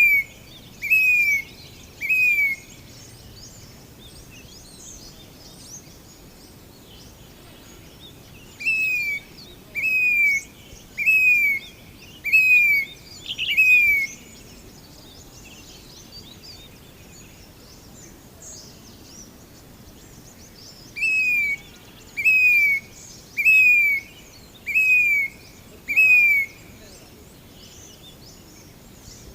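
Grey-bellied cuckoo (Indian plaintive cuckoo) calling: three runs of loud, clear whistled notes, each note falling in pitch, about one note a second, with pauses of several seconds between runs. Fainter chirps of other birds sound in between.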